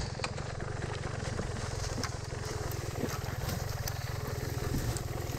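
Dirt bike engine idling steadily, with a few faint clicks over it.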